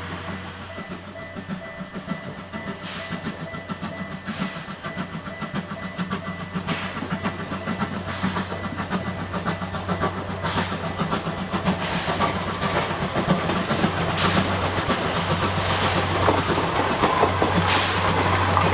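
C11 123, a 2-6-4 tank steam locomotive, running along the track with a train of coaches and clattering. It grows steadily louder as it approaches and is loudest near the end.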